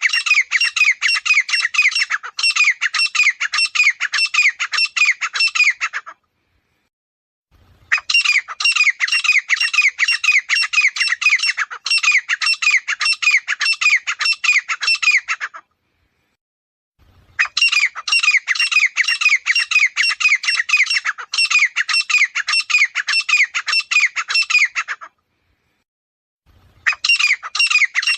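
Grey francolin calling: fast runs of short notes, each dropping in pitch, about four a second. The runs come in bouts of roughly eight seconds with short pauses between them, and a new bout starts near the end.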